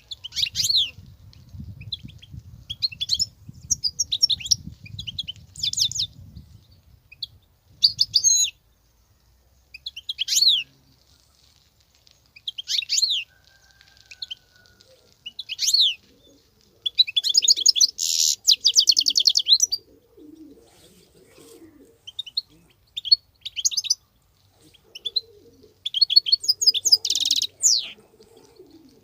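European goldfinch singing in a run of short twittering phrases, quick sweeping notes broken by brief pauses, with longer fast trills about two-thirds of the way in and again near the end. A low rumble sits under the first several seconds.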